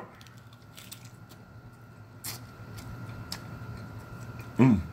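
Chewing a bite of breaded fried chicken: scattered soft mouth clicks and crunches, the sharpest about two seconds in, then a short hummed vocal sound near the end.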